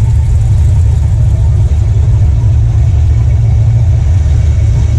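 A car engine idling nearby with a steady, loud low rumble.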